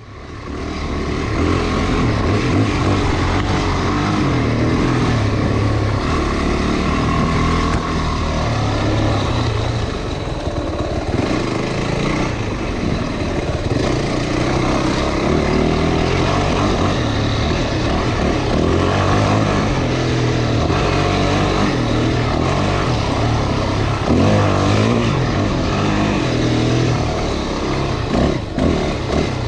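Off-road motorcycle engine running on a trail ride, its revs rising and falling with the throttle, mixed with wind and riding noise on the camera. It fades in over the first second.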